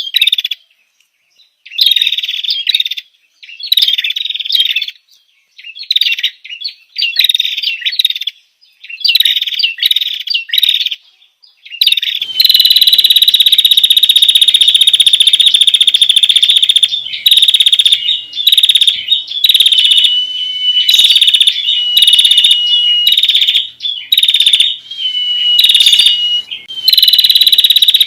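Female prinia (prenjak) calling: for the first twelve seconds or so, short bursts of sharp chirping phrases with brief gaps, then a loud, nearly continuous rapid trill that runs on with only short breaks.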